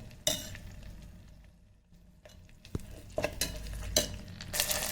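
Vegetables frying in oil inside an electric kettle pot, stirred with a spoon that knocks against the pot a few times; the sizzling gets louder near the end.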